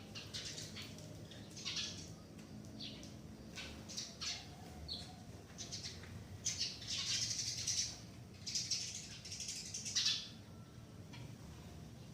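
Birds flapping and calling in short, irregular, hissy bursts, with a denser flurry from about six to ten seconds in.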